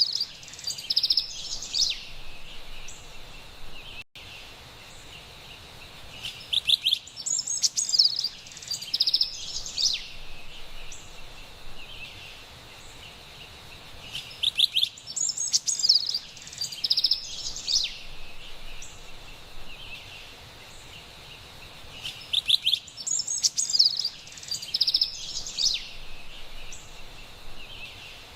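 Carolina wren singing in bouts of rapid, bright phrases that come back about every eight seconds, over a faint steady background hiss.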